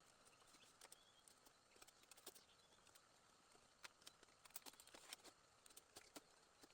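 Near silence: faint outdoor background hiss with scattered small, irregular clicks and taps, thickest a few seconds in.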